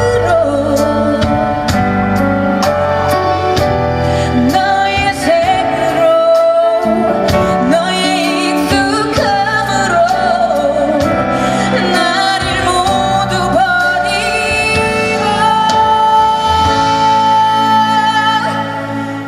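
A woman singing a song live over loud amplified backing music with a steady drum beat.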